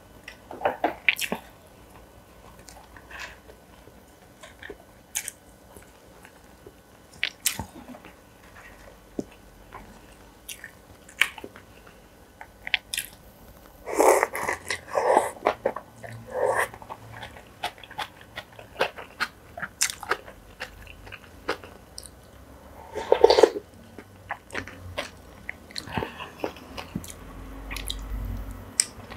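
Close-up eating sounds: a person biting and chewing dumplings, with many small wet mouth clicks and louder chewing spells about halfway through and again near the end.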